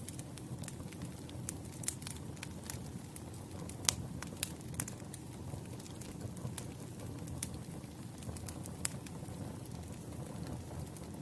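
Wood campfire burning with a steady low rumble of flames and irregular sharp crackles and pops, the loudest pop about four seconds in.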